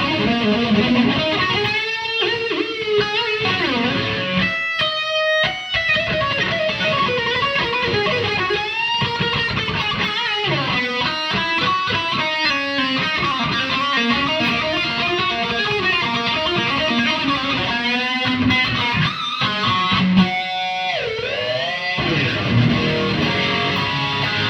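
Distorted electric guitar played through a Mesa/Boogie Mark IIC+ reissue amplifier: heavy-metal lead playing with fast runs, string bends and vibrato, and a long bend near the end.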